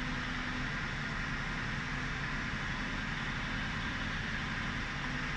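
Ford Crown Victoria's 4.6-litre V8 idling steadily with a misfire on one or more cylinders.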